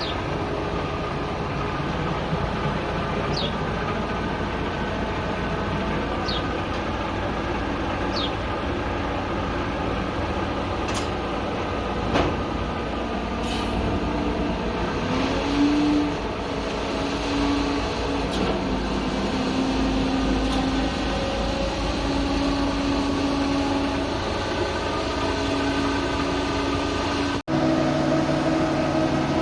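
A machine's engine running steadily, with a few short clicks and knocks over it; near the end the sound cuts and resumes at a different pitch.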